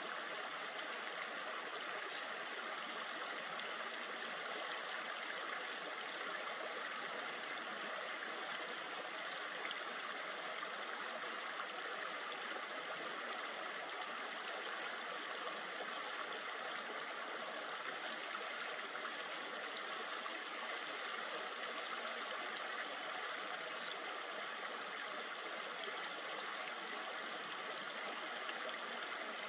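Shallow river flowing steadily over stones, a constant babbling rush, with a few short, high bird chirps over it, the loudest a little past two-thirds of the way through.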